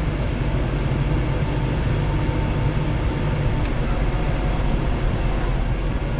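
Kubota L3940 tractor's three-cylinder diesel engine running steadily under load, a constant low drone heard from inside the closed cab.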